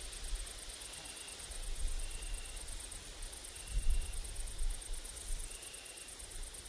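Grasshoppers and bush crickets stridulating: a continuous, very high, rapidly pulsing buzz that breaks off briefly about three seconds in. A short high note repeats about every second and a half, over a low wind rumble on the microphone that gusts about four seconds in.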